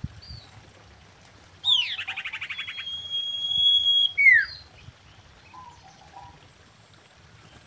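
Common iora calling: about a second and a half in, a falling note runs into a rapid trill, then a long steady high whistle swells and ends in a short down-slurred note.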